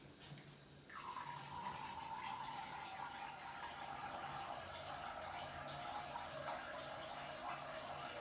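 A stream of water pouring into water, starting suddenly about a second in and running steadily, its pitch sliding slowly lower.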